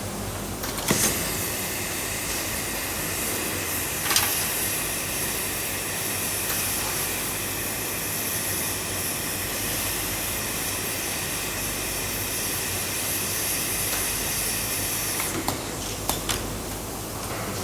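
A steady hiss, strongest in the high range, with a few sharp clicks about a second in, about four seconds in and near the end.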